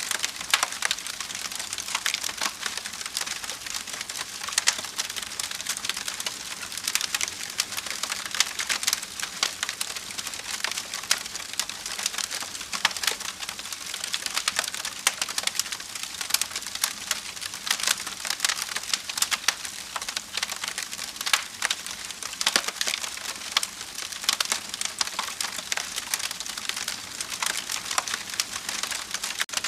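Wood fire burning in a fireplace, crackling steadily with many sharp, irregular pops and snaps over a soft hiss.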